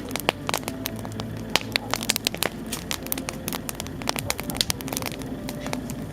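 Bonfire crackling, with a dense, irregular run of sharp snaps and pops throughout.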